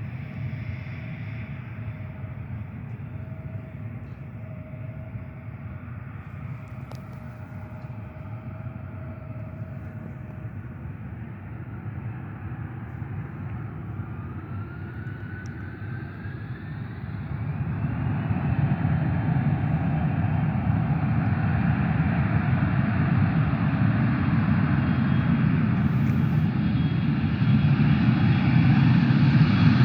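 Jet airliner engines: a steady rumble, then a whine that rises in pitch about halfway through and holds high as the engines spool up and the noise grows louder toward the end.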